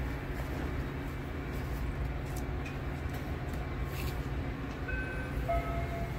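Steady low rumble of a diesel-hauled Metra commuter train standing at the platform with its doors open. A few faint short tones sound about five seconds in.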